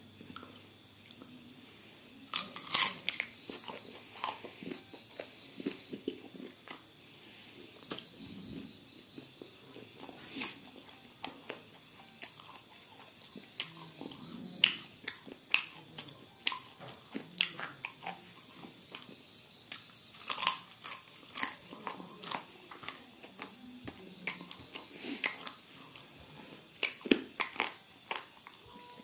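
Close-up chewing and biting of crispy fried meat, with irregular sharp crunches and crackles.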